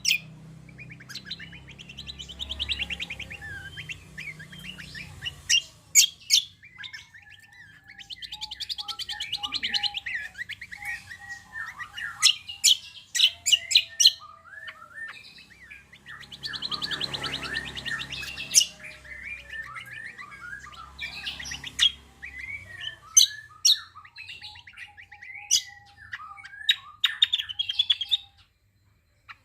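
Cucak kombo (greater green leafbird) singing in full voice: a busy, varied run of rapid chirps, buzzy trills and sharp high notes, with short pauses and a few lower whistled notes.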